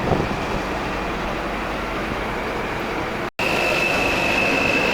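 Steady traffic and train noise around a railway station. After a cut a bit over three seconds in, a steady high whine sits over the noise, which is a little louder.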